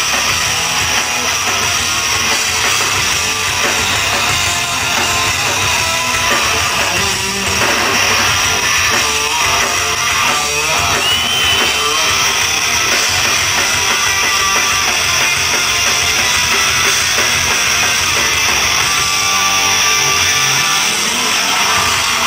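Live rock band playing an instrumental passage: distorted electric guitar over a drum kit, loud and continuous, with no vocals.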